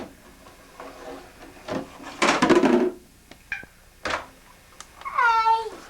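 Hard toy pieces clattering and knocking as they are handled: a burst of clatter about two seconds in, then a few single clicks. Near the end comes a short, falling voice-like tone.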